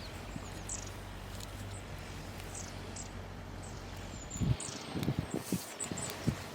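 Short high chirps, like small birds calling, repeat over a low steady hum. From about four and a half seconds in, a run of dull knocks and thumps follows, the loudest sounds here.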